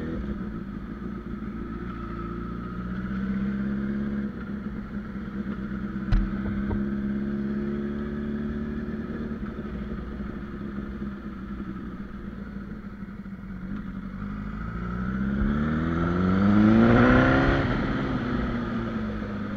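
Honda CBR1000RR Fireblade's inline-four engine running while the bike rides along, steady for most of the time, then revving up in a rising sweep about three-quarters of the way through as it accelerates before easing off. One sharp knock about six seconds in.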